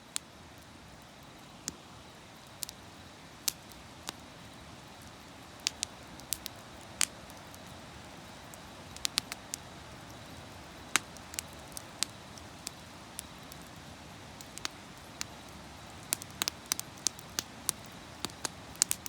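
Wood fire crackling: irregular sharp pops and snaps, sometimes in quick clusters, over a steady low hiss.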